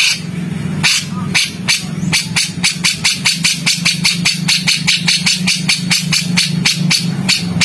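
Songbird giving a fast, even series of sharp, harsh clicking call notes, about four to five a second, over a steady low hum.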